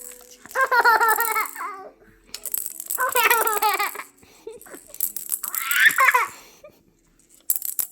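Six-month-old baby laughing in three bouts of rapid, breathy giggles, with a toy rattle shaken around them, its rattling loudest near the end.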